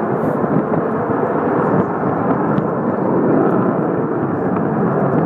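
Avro Vulcan B2 XH558's four Rolls-Royce Olympus turbojets heard from the ground as the delta-wing bomber flies its display, a loud, steady jet noise that swells slightly midway.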